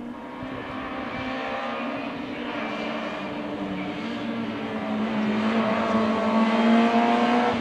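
Rally car's engine pulling hard at high revs on a stage, getting steadily louder as the car approaches.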